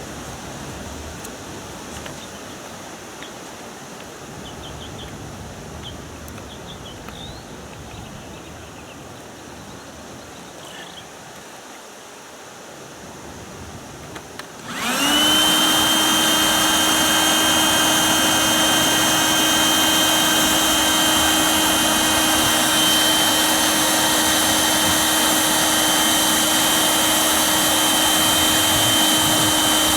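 Small electric air pump switching on about halfway through and running steadily with a constant whine, inflating an inflatable boat's floor. Before it starts there is only faint background with a few short chirps.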